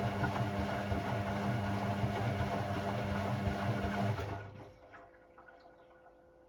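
Hoover Sportswear 1300 washing machine running with a steady hum, which cuts out about four seconds in and dies away over half a second, leaving only a faint background with a few small ticks.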